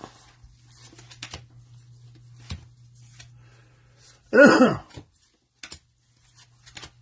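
Trading cards handled and flipped, giving light clicks and short rustles, with one short, loud vocal cry that falls in pitch about four and a half seconds in.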